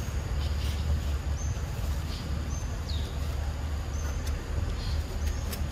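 Outdoor ambience: a steady low rumble with short, high bird chirps about once a second, one of them sliding down in pitch about three seconds in.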